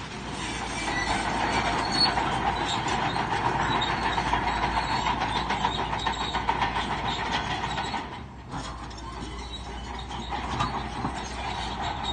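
Bulldozer at work, its steel crawler tracks clanking and squealing over a running diesel engine. The clatter dips briefly about eight seconds in.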